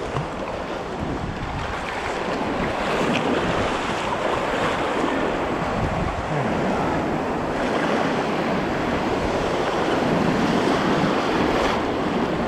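Waves washing and breaking around a kayak, with wind noise on the microphone. The surge swells a couple of seconds in and again near the end.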